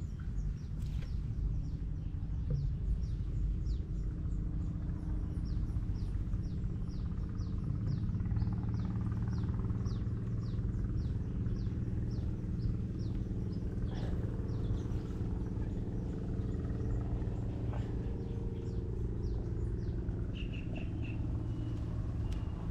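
A bird calling over and over in short falling chirps, about two a second, over a steady low machine hum that grows firmer about eight seconds in.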